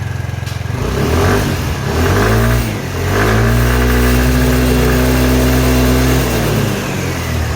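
Kymco Agility Renouvo Naked 50cc four-stroke scooter engine revved up from idle twice. There is a short rev about a second in, then a longer held rev from about three seconds in that drops back toward idle near the end. It runs cleanly with its broken variator and torn drive belt repaired.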